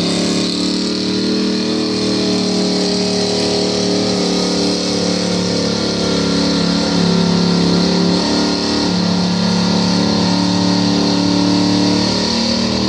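Pickup truck engine held at high revs under heavy load as it drags a weight-transfer sled down the track in a pull. Its pitch stays nearly level, bogging slightly about halfway through.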